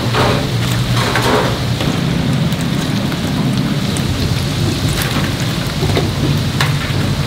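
Chicken pieces deep-frying in a vat of hot oil: a steady, fairly loud sizzle with scattered sharp pops, over a low steady hum.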